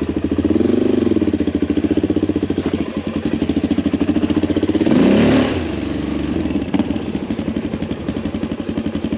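Suzuki DR-Z400 single-cylinder engine running at low speed, the revs rising and dropping back. About five seconds in there is a brief rush of splashing water as the bike rides through a water crossing.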